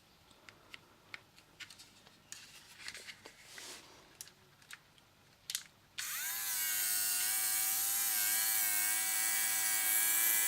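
Small plastic clicks and handling, then about six seconds in the Panasonic ER430K battery-powered nose and ear hair trimmer switches on: its motor and vacuum fan spin up with a whine that rises briefly and settles into a steady hum.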